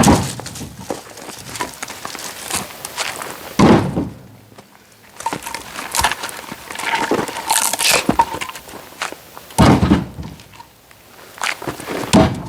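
Oak firewood being worked: four heavy wooden thunks a few seconds apart, with lighter knocks and scraping in between.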